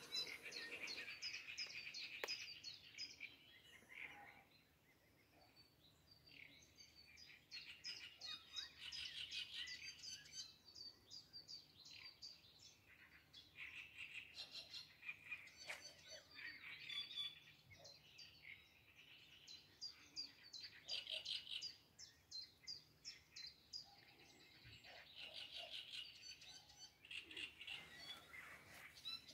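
Faint bird chirps and calls, many short notes coming in runs, with a quieter lull about four to seven seconds in.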